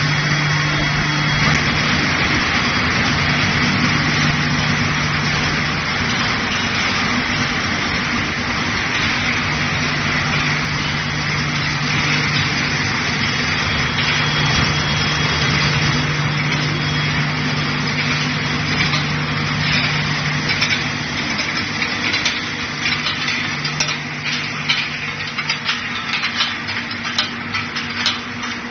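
Steel ball hot rolling line with its induction heating furnace running: a loud, steady machine noise with a constant hum. From about two-thirds in, a scatter of short clicks and knocks comes through.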